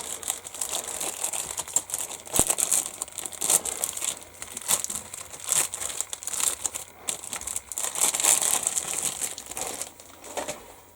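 Thin plastic bag crinkling and rustling as a kit's clear-parts sprue is slid back into it, with irregular crackles throughout and one sharp click a little over two seconds in.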